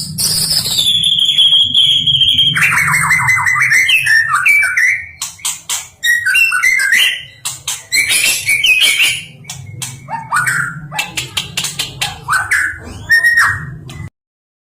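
White-rumped shama (murai batu) singing a varied song. It opens with long clear whistles that step down in pitch, then a fast trill, then quick sliding notes mixed with sharp clicks. The sound cuts off abruptly near the end.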